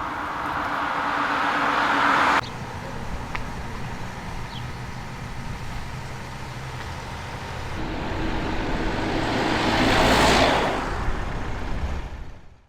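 A road vehicle passes: its noise swells and cuts off abruptly about two seconds in, then another vehicle approaches, passes loudly near the end and fades away.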